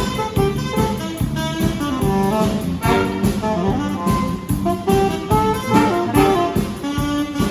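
Jazz band music: saxophones and brass playing a melody over a steady beat.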